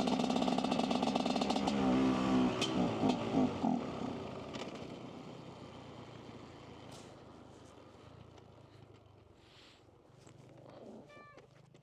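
Dirt bike engine running and revving unevenly for a few seconds, then dying away to a faint hum. This is the stutter the rider took for fuel starvation, as if it had no gas.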